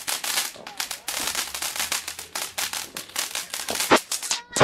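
Fireworks crackling: a dense run of rapid pops and crackles, with a louder bang about four seconds in.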